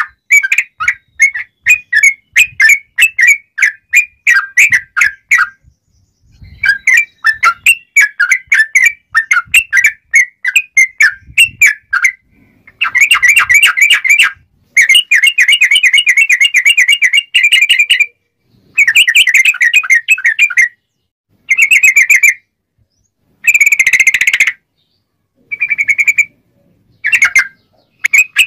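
Sooty-headed bulbul (trucuk) singing loudly in rapid strings of clear whistled notes. Long continuous runs come first; from about halfway through the song breaks into shorter, denser bursts with pauses between them.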